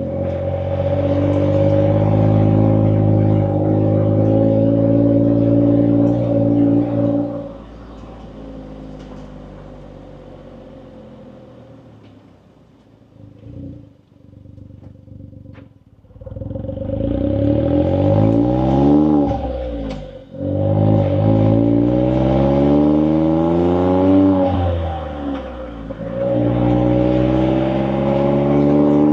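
Suzuki Jimny JB64's turbocharged 660 cc three-cylinder engine heard through an HKS Legal aftermarket muffler, picked up by a microphone mounted outside the car, with some clipping and dropouts. It runs steadily at first, drops much quieter for several seconds, then the revs climb and fall several times before settling into a steady run again.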